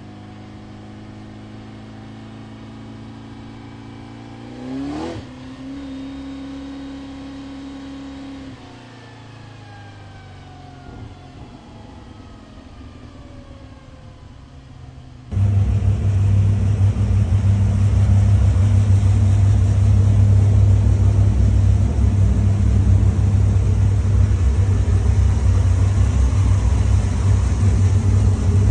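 Off-road trophy truck engine idling, with one brief rev about five seconds in. About halfway through it cuts suddenly to a much louder, steady low engine drone.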